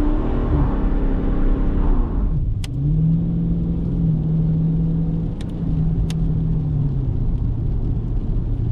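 Dodge Challenger Scat Pack's 392 Hemi V8 on its stock exhaust, under throttle at high revs. About two seconds in the revs fall away, then the engine holds a steady lower pitch for about four seconds before easing off near the end.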